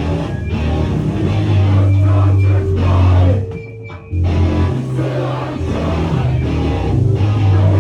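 A powerviolence band playing live: loud, heavy distorted guitar, bass and drums. The band breaks off for about half a second a little past the middle, then comes straight back in.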